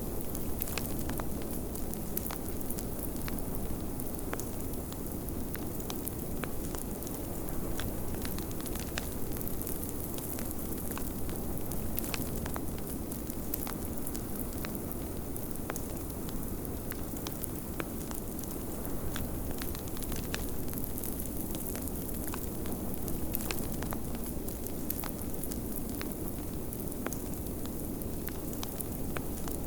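Wood fire crackling, with frequent short sharp pops, over a steady low rush of blizzard wind.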